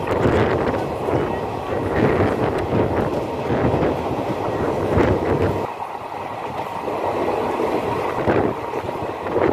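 Passenger express train running along the track, heard from on board: a steady rumble with wheels clattering over rail joints and wind buffeting the microphone. The low rumble eases a little over halfway through.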